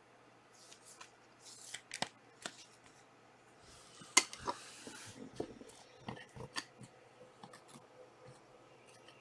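Trading card packs being opened and handled: foil wrappers crinkling and tearing, cards sliding and tapping, with scattered small clicks and the sharpest snap about four seconds in.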